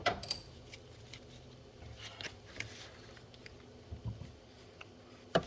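Scattered light clicks and knocks of a hand tool and small parts being handled, with a sharper knock near the end.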